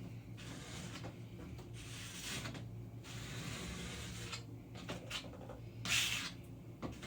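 A plastic key card scraping and spreading spackle along a drywall ceiling seam in a series of strokes, the loudest about six seconds in. A steady low hum runs underneath.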